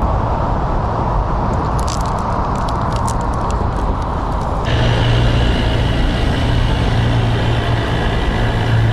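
A motorboat engine running steadily nearby, a low drone that gets louder about halfway through, with a few light clicks near the start.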